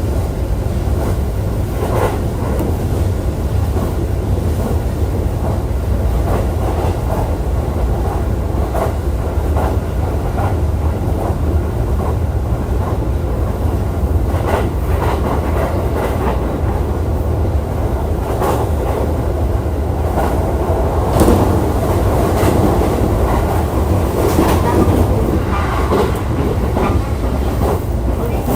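E531-series electric train running along the Jōban Line, with a steady low rumble of wheels on rail and irregular clicks as the wheels pass over rail joints. The sound grows a little louder and busier a little past twenty seconds in.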